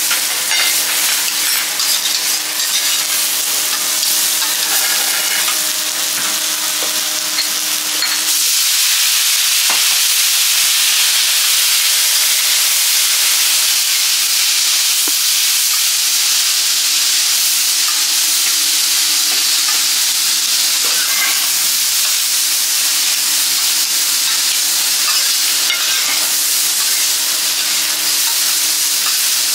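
Vegetables sizzling on a hot steel teppanyaki griddle as they are stir-fried with a metal spatula and fork, with scattered small clicks and scrapes of the utensils. The sizzle grows louder about eight seconds in.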